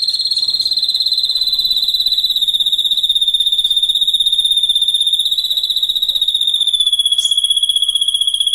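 A loud, unbroken, high-pitched insect trill that pulses very rapidly and sinks slightly in pitch over several seconds.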